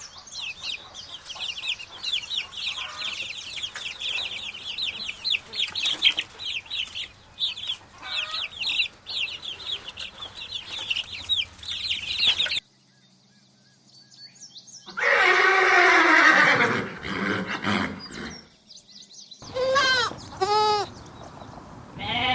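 Chicks peeping, a dense chorus of rapid high cheeps for about twelve seconds that cuts off suddenly. After a short quiet gap comes a loud drawn-out call falling in pitch, then two short calls from farm animals.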